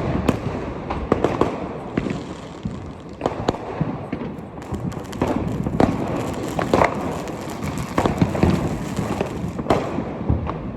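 Fireworks and firecrackers going off: many sharp bangs at irregular intervals over a continuous crackling din.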